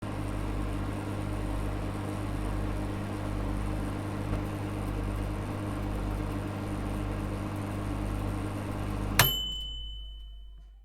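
Microwave oven running with a steady hum, then cutting off with a click about nine seconds in and a single ringing ding that fades away, signalling the end of the cooking cycle.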